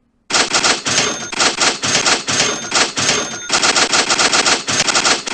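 Trading-software alert sound effect: a loud, rapid clatter of sharp clicks with faint ringing tones mixed in, repeating several times a second, starting about a third of a second in.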